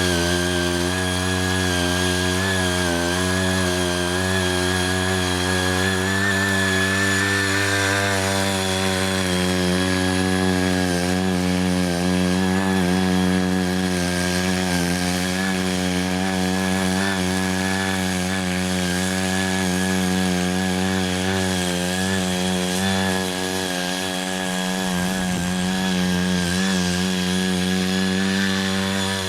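Small engine of a Ching Yee CY80 walk-behind power tiller running steadily under load as its rotary tines loosen the soil, its pitch wavering slightly.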